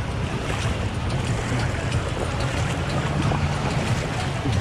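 Two-stroke jet ski engine running steadily on the water: a low, even drone with a hiss over it.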